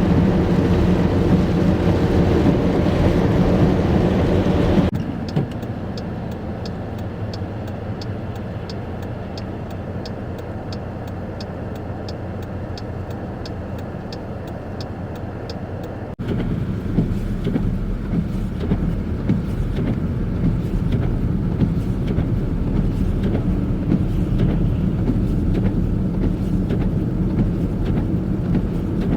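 Road vehicle engines and traffic noise, changing abruptly twice. The quieter middle stretch carries a regular light ticking at about two ticks a second.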